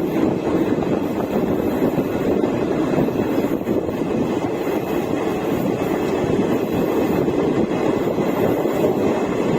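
A passenger train moving along the track: steady wheel-on-rail running noise without breaks.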